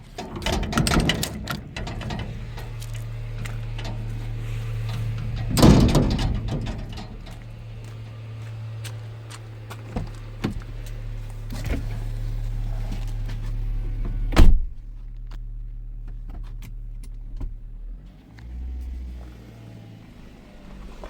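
A vehicle engine running steadily with a low hum, with several knocks over it and two loud thumps, about six seconds and fourteen seconds in. The hum stops near the end.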